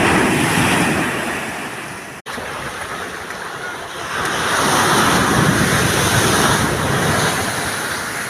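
Sea surf breaking on the shore in two surges: one swells and fades over the first two seconds, then after a brief dropout a second, longer wash rises from about four seconds in.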